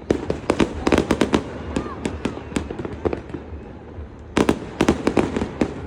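Fireworks going off in rapid volleys of sharp cracks and bangs, dense at the start and again near the end with a sparser lull in between.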